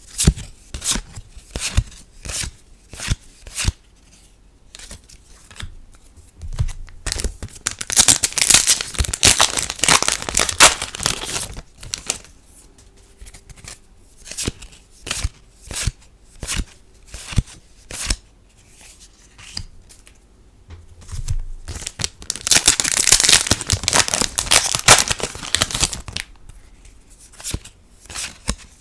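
Foil trading card booster packs torn open and crinkled, twice, in two stretches of several seconds each. Between them, single cards snap and flick as they are flipped through and laid down one at a time, about one or two a second.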